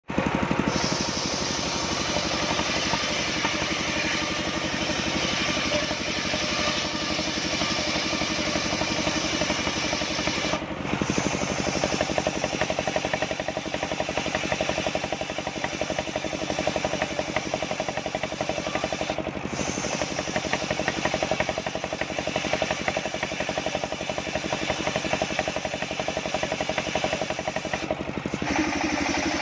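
The engine driving a homemade circular sawmill runs steadily with a dense, even chugging, and the sound breaks off briefly three times.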